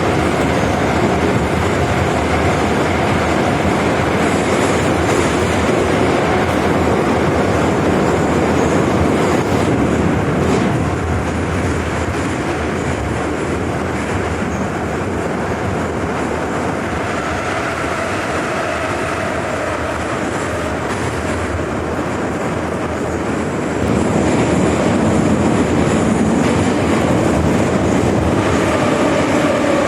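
Moscow Metro 81-717.5M/714.5M 'Nomernoy' train running between stations, with steady wheel and rail noise and some clickety-clack. The noise eases a little about ten seconds in and grows louder again about twenty-four seconds in.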